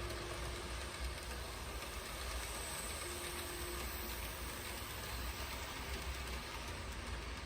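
KATO N-gauge model of the 883 series Sonic train running on track: a steady rumble of wheels and motor, with a faint tone that comes and goes.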